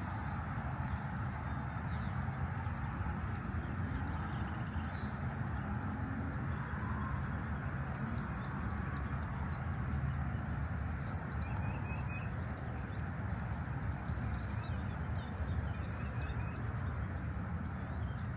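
Steady outdoor park ambience, an even low rumble throughout, with a few short bursts of bird chirps: a quick run of high notes about four seconds in and more around twelve and fifteen seconds.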